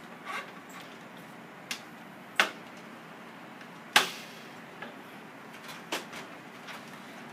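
Clicks and knocks of the Thermaltake Armor MX computer case's parts being fitted back together by hand: several separate sharp knocks, the loudest about four seconds in.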